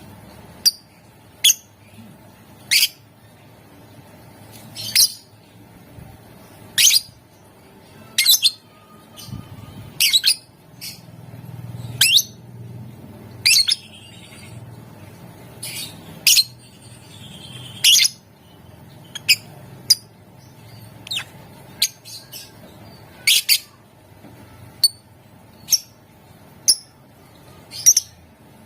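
Lovebird giving short, sharp, shrill calls, one every one to two seconds at an irregular pace, over a faint low hum.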